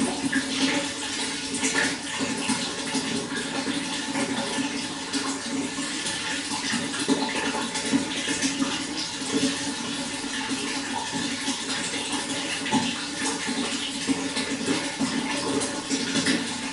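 Running water flowing steadily, a continuous splashing gurgle with a low rumble and fine bubbling.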